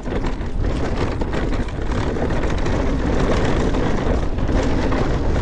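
Mountain bike descending a dirt trail: a steady rushing of wind on the microphone and tyres rolling over rough ground, with the bike's rattle, a little louder from about two seconds in.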